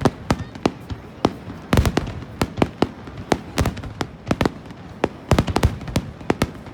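Fireworks going off in quick, irregular succession: many sharp bangs, several a second, bunched more densely about two seconds in and again past the five-second mark.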